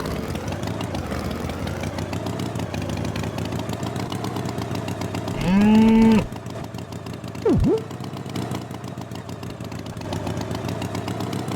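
Tractor engine running steadily as a cartoon sound effect, with a single drawn-out moo about halfway through and a brief swooping sound effect just after it.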